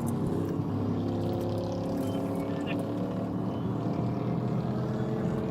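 Pursuing police car's engine running hard under acceleration, its pitch climbing slowly and steadily.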